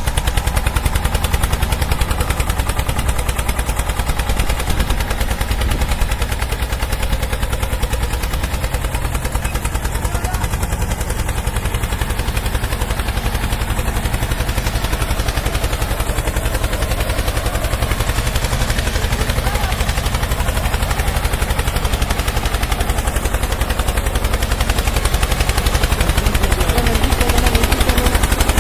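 Small engine of a homemade mini tractor running, with a rapid, even popping from its exhaust; it grows a little louder near the end.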